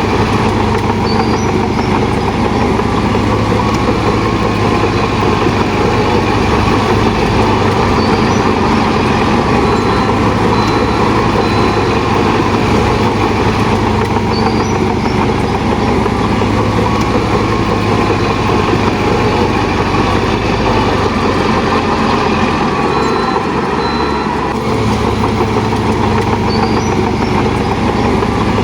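Heavy diesel engine of a Shantui DH17 bulldozer running steadily. Its low note dips briefly about three quarters of the way through, then picks up again.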